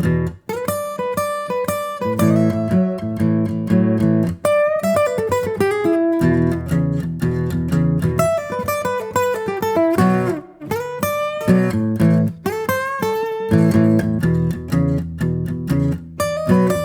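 Instrumental acoustic guitar music, plucked notes over a low bass line with a few brief breaks.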